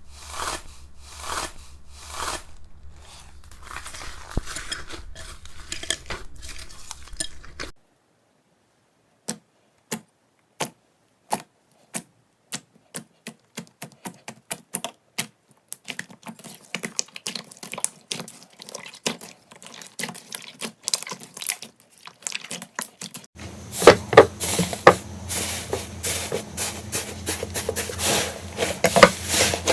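Slime being worked by hand in three separate clips: first soft crackling with a tick about twice a second, then, after a short silence, sharp clicks that come faster and faster, and near the end a louder, dense crunching and crackling.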